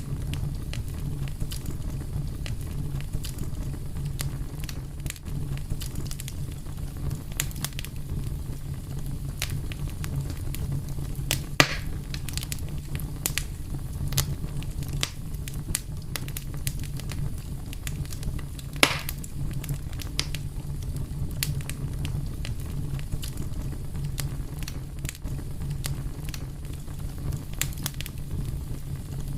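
Fire crackling with a steady low rumble and frequent small clicks and pops. Two louder sharp snaps come about 12 and 19 seconds in.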